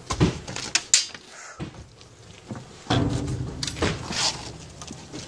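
Sharp knocks and thuds of a refrigerator door being handled, then a longer rough scraping rustle about three seconds in as the door is worked open.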